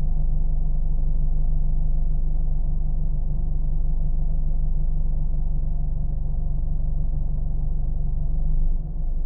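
Car engine running at a steady, muffled low hum and rumble, with no high-pitched sound; it dips slightly in loudness just before the end.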